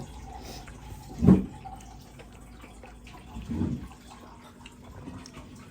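Eating sounds: mouth noises of chewing fried chicken lollipop, with two short, louder low thuds, one about a second in and one past the middle.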